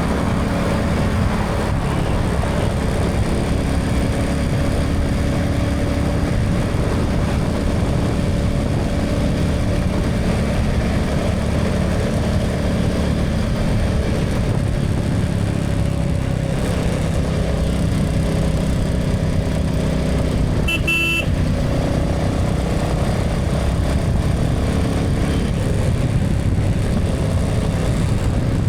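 Motorcycle engine running steadily at cruising speed, with road noise and traffic around it. About two-thirds of the way through, a short horn toot.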